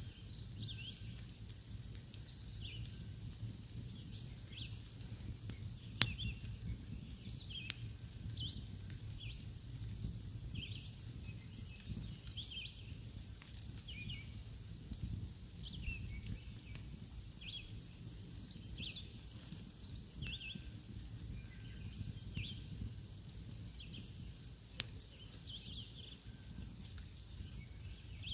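Small birds chirping repeatedly, short calls scattered through, over a steady low rumble, with a sharp pop from the campfire about six seconds in and another near the end.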